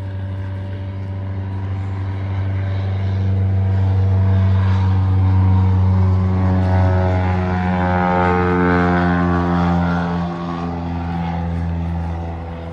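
A loud, low engine drone with a steady hum, swelling to its loudest about halfway through, then shifting in pitch as it passes by.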